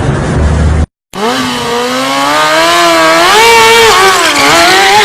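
Rumbling engine and wind noise that cuts off abruptly just under a second in. Then a motorcycle engine is revved, its pitch climbing and wavering up and down as the throttle is worked.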